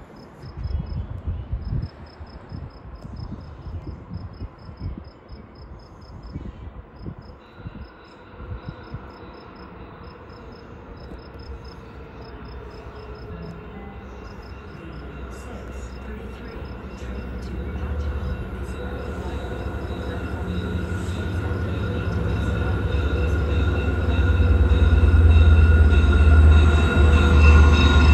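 Diesel-hauled train approaching, its sound growing steadily louder: steady high ringing tones come in about a quarter of the way through and a low engine drone builds in the second half. Early on, wind buffets the microphone and insects chirp in a steady high rhythm.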